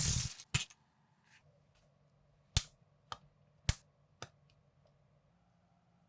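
Plastic LEGO-compatible building bricks clicking and snapping as they are handled and pressed together: a brief clatter at the start, then four sharp separate clicks about half a second apart.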